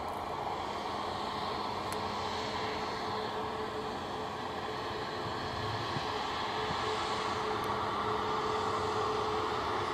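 Boeing 737 MAX 8's CFM LEAP-1B jet engines running at low power, a steady rush with a held whining tone that grows slowly louder.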